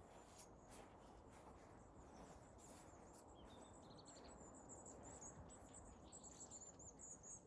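Faint, very high-pitched rapid twittering of a small songbird, starting about three seconds in and growing busier toward the end, over a low steady background hiss.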